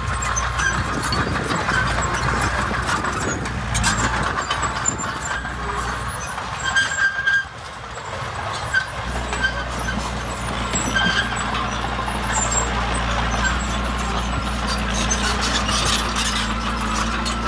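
Heavy earth-moving machine's diesel engine running steadily, with scattered metallic squeaks and clanks. The engine sound drops away briefly about seven seconds in and comes back about two seconds later.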